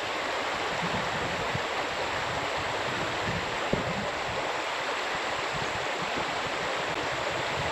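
Steady rushing of creek water running through rapids.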